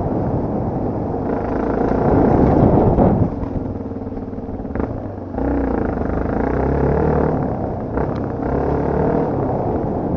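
Off-road motorcycle engine running under throttle with wind and rough-ground noise. The throttle drops off about three seconds in and picks up again about two seconds later, with a couple of short knocks.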